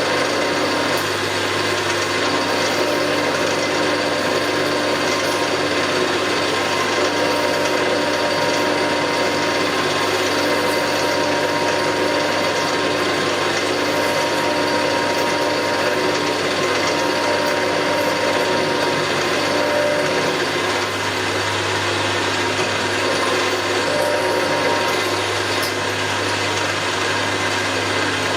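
Milling machine running steadily, its cutter taking a cut across a metal plate: a constant machine hum with a rasping cutting noise over it.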